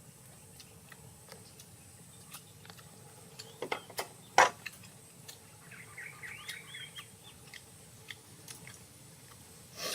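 Scattered sharp clicks and taps, loudest in a short cluster about four seconds in, with a brief wavering bird call around six to seven seconds.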